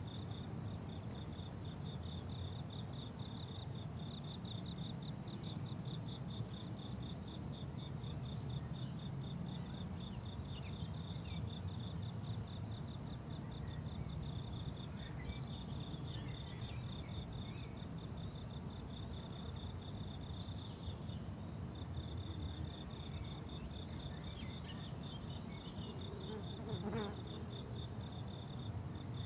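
Crickets chirping in dense, rapid, steady pulses at two pitches, the higher one pausing briefly twice, over a faint low background rumble.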